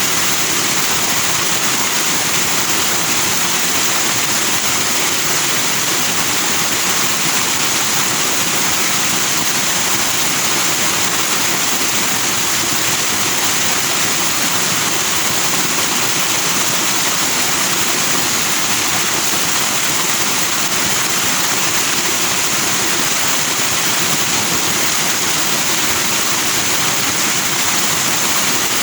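Forest stream flowing fast over rocks into white foam, a steady, even rushing of water.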